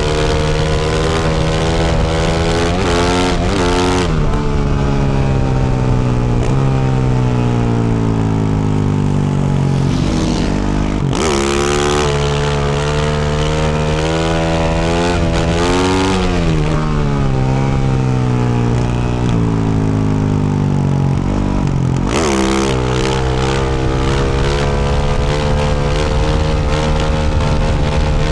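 2024 Yamaha YZ450F's single-cylinder four-stroke engine through a Yoshimura RS-12 exhaust, riding on. Its pitch falls away slowly and climbs again several times, with short sharp blips of throttle between.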